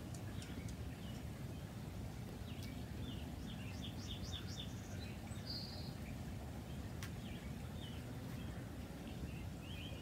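Small birds chirping, with a quick run of chirps about three to four seconds in and scattered single chirps elsewhere, over a steady low background rumble.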